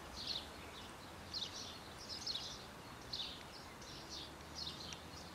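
Faint birdsong: short, high chirps repeating every half second or so over a quiet outdoor background.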